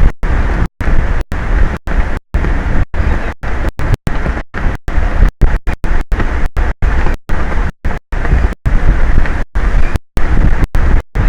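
Strong wind buffeting an exposed outdoor microphone: a loud, rumbling rushing noise, cut by many brief dropouts, several each second.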